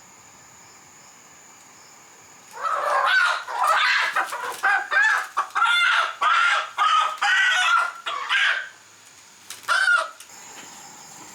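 Chicken calling in a rapid run of short, loud calls for about six seconds, then one more call near the end; insects keep up a steady high buzz underneath.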